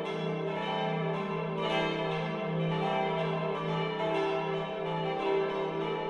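Full peal of five bronze church bells cast in 1964 by Friedrich Wilhelm Schilling, tuned e', g', a', c'' and d''. The swinging bells strike one after another in a continuous ringing, with the notes overlapping.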